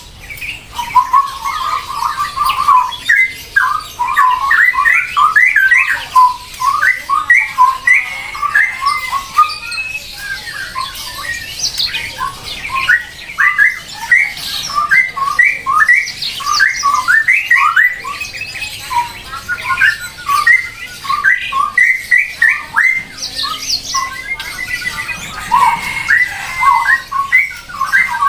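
Birds calling continuously: many short, overlapping squawks and chirps from several birds at once.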